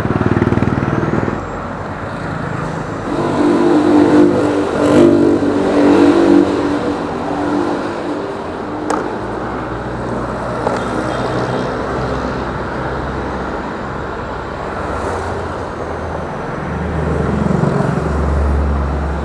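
Motorcycle engine running on the move, with wind and road noise; the engine note rises and falls more loudly from about three to six seconds in.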